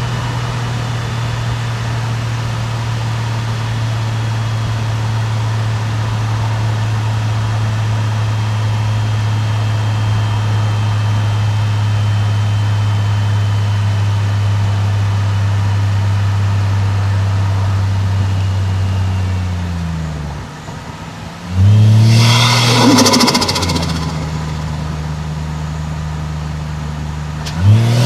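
Toyota 1JZ-GTE turbocharged straight-six in a car, holding steady revs with a constant exhaust drone for most of the time. The revs then fall off. About 22 seconds in it comes back hard on the throttle with a loud surge and a high rushing hiss. After that it settles to a steadier, lower note, and the revs climb again near the end.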